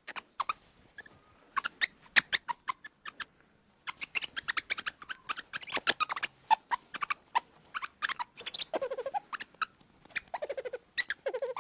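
A small animal giving quick runs of sharp, clicking squeaks, with a few lower, downward-sliding calls in the second half.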